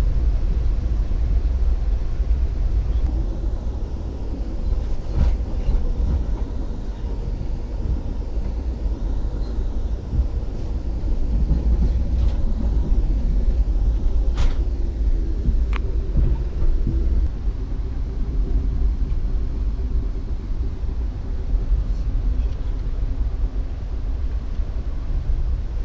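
Steady low rumble of a passenger train car running along the track, heard from inside the coach, with a few brief sharp clicks in the middle.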